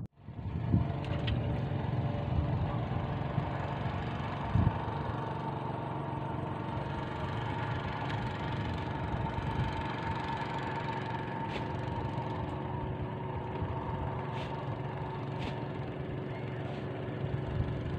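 An engine running steadily at idle, a constant hum with a held tone that does not change.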